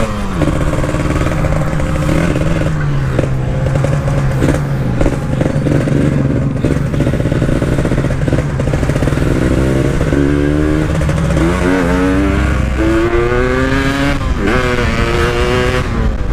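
Motorcycle engine heard from the rider's seat while riding: the engine holds a fairly steady speed at first. In the last several seconds it revs up in a series of rising sweeps as it is accelerated through the gears.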